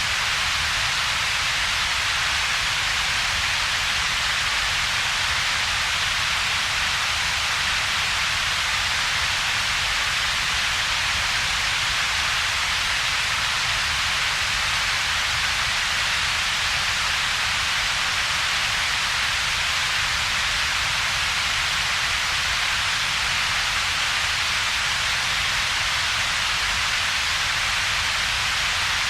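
Synthetic steady noise with two peaks, a strong hiss centred in the upper mids and treble and a weaker low rumble, with a gap between them. It does not change.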